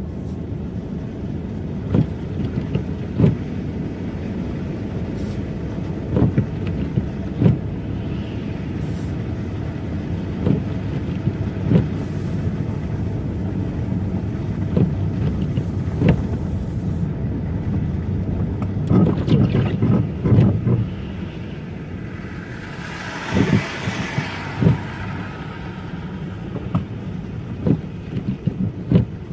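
Car driving on snowy streets: a steady low road rumble, with irregular sharp thumps every few seconds as it rides over the uneven snow. A brief rushing hiss rises and fades about 23 seconds in.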